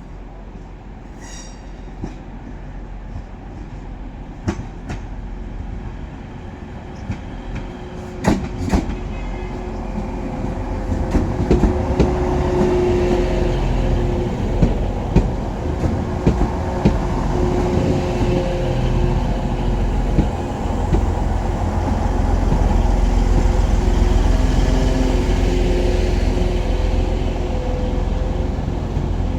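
Passenger train moving through the station, growing steadily louder as it nears, with a heavy rumble, a steady engine hum and repeated sharp clicks of wheels over rail joints.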